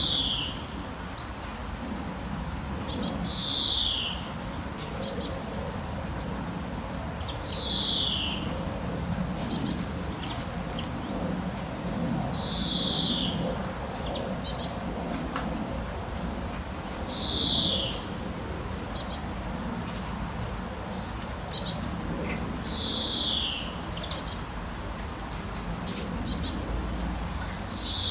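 Songbird calls repeating over a steady hiss of rain: a clear whistle sliding down in pitch every four to five seconds, with short bursts of three or four very high, quick notes in between.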